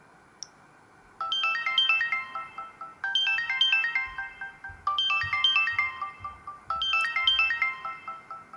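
Samsung GT-C3222W mobile phone ringtone: a short chiming melody of quick notes that starts about a second in and repeats four times, each phrase about two seconds long.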